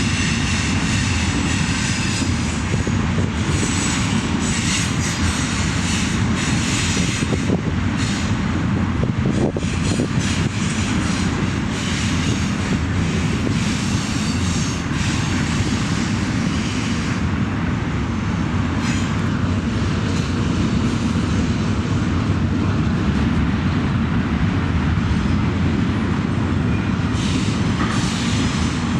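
CSX diesel locomotive running past: a steady engine drone and rumble of steel wheels on the rails, with a couple of knocks and high wheel squeal coming and going.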